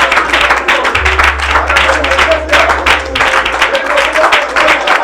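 Many voices praying aloud at once over a keyboard holding low sustained notes; the bass note changes about a second in and again around three seconds.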